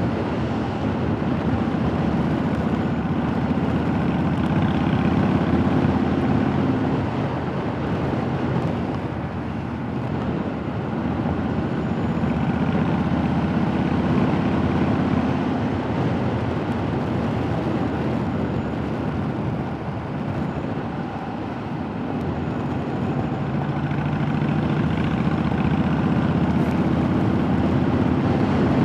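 Motorcycle engine running while riding, with road and wind noise; the engine note eases off twice, around a third of the way in and again past two thirds, then builds back up.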